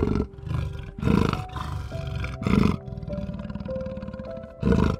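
An animal roaring in about five short calls, spaced unevenly, over soft background music with held notes.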